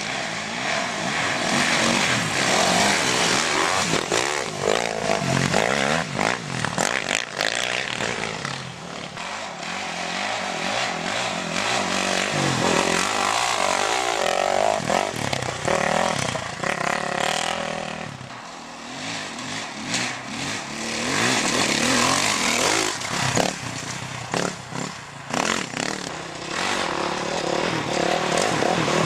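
Off-road racing motorcycles running on the track, engines revving up and down as they accelerate and shift, louder and quieter as they pass, with brief lulls about nine and eighteen seconds in.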